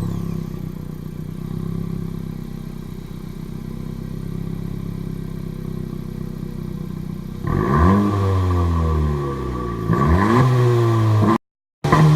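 Stock exhaust of a 2017 Honda Civic Si, its 1.5-litre turbocharged four-cylinder idling steadily, then revved twice, about seven and a half and ten seconds in, the pitch rising and falling back each time. The sound cuts out for a moment near the end.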